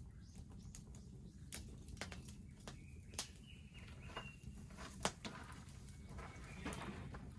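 Wood bonfire crackling, with sharp irregular pops and snaps over a low steady rumble of the burning. A faint high bird call sounds for about two seconds in the middle.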